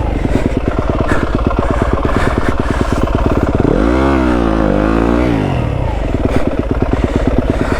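Yamaha WR250F's single-cylinder four-stroke engine chugging at low revs, with one rev that rises and falls about four seconds in. The bike is straining to get through snow and logs.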